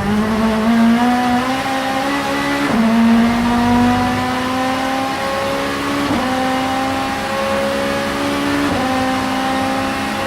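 Vauxhall Vectra Super Touring race car's 2-litre four-cylinder engine accelerating hard under load. The pitch climbs through each gear and drops sharply at three upshifts, about three, six and nine seconds in.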